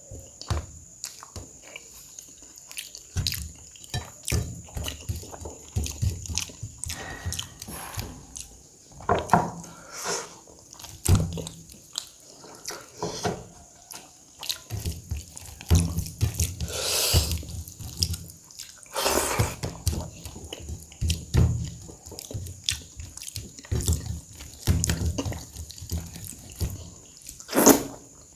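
Close-miked eating: wet chewing, lip smacks and mouth sounds of a person eating rice with curry and dal, in irregular bursts with a few sharper clicks. A faint steady high whine sits underneath.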